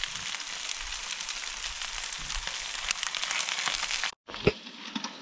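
Trout frying in butter in a pan, a steady sizzle full of fine crackles and pops. It breaks off about four seconds in and comes back quieter.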